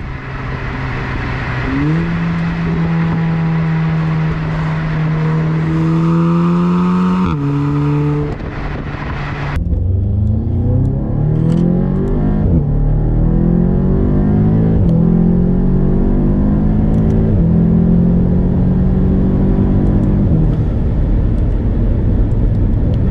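Audi S3 8V's turbocharged 2.0-litre four-cylinder engine, remapped to 370 bhp, running at a steady note with a few gear changes. About ten seconds in, the sound changes abruptly and the engine pulls hard, its pitch climbing and dropping at each of several quick DSG upshifts before settling.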